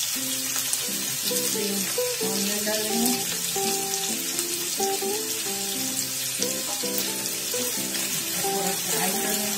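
Chopped vegetables sizzling in hot oil in a kadhai, stirred with a wooden spatula near the end. A background music melody of short stepped notes plays throughout.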